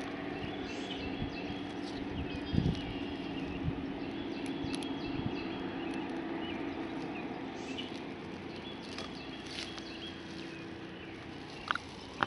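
Outdoor ambience: scattered short bird chirps over a steady low hum, with a soft bump about two and a half seconds in and a sharper click near the end.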